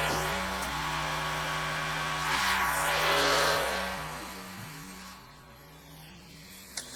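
Gas pressure washer running with a steady hum that shifts pitch a little, while the hiss of the water spray rises strongly and then eases off about four seconds in.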